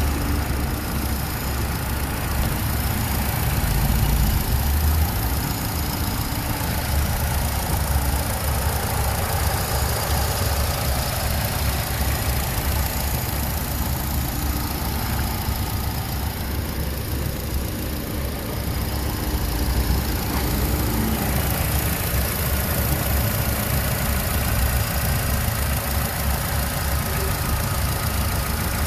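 Vauxhall Astra H's 1.4-litre Z14XEP four-cylinder petrol engine idling steadily.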